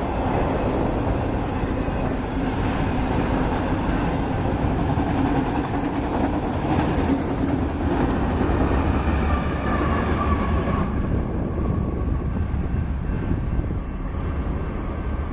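Union Pacific autorack freight cars rolling past on the rails: a steady rumble of wheels on track, with a thin high tone about ten seconds in. The higher sounds drop away after about eleven seconds.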